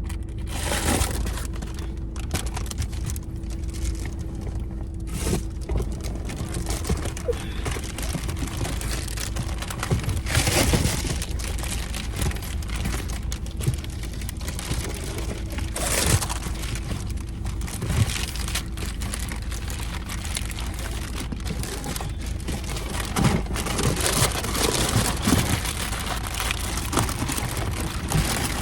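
Irregular crinkling and rustling of material being handled inside a car, with scattered clicks over a steady low rumble.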